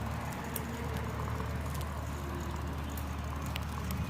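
Steady low drone of a moving motor vehicle: engine hum and road noise, with a few faint ticks.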